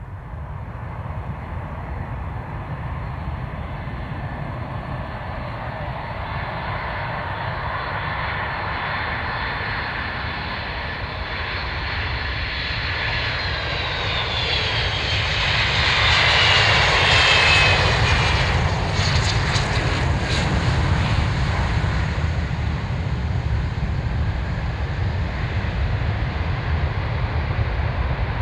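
Boeing 747's four jet engines on landing, the noise building as the airliner comes in, with a high whine that falls in pitch as it passes, loudest about two-thirds through, then a steady jet rumble.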